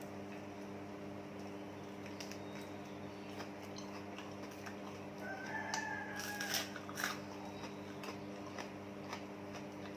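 A rooster crows once, about five seconds in: one held call lasting over a second, over a steady low hum. A few sharp clicks and knocks come around six to seven seconds in.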